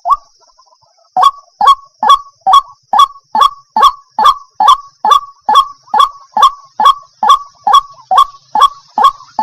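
Waterhen calling: a loud, rapid series of short, harsh, honking notes, a little over two a second. The calls pause for about a second at the start, then run on without a break.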